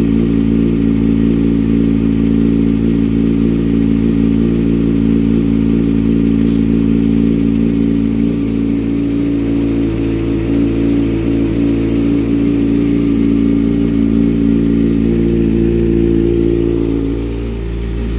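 Kawasaki Ninja ZX-6R's inline-four idling steadily on its fast cold-start idle through an M4 GP19 slip-on exhaust, the engine still warming up. The idle dips briefly near the end.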